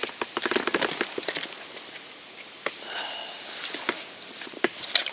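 Irregular clicks and light knocks, thickest in the first second and a half and again near the end, with a brief faint thin tone about three seconds in.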